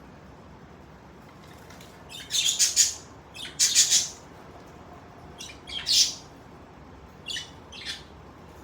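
Pet budgerigars chirping and squawking in short runs of sharp, high calls, starting about two seconds in, with the loudest runs early and near the middle, and a few shorter calls near the end.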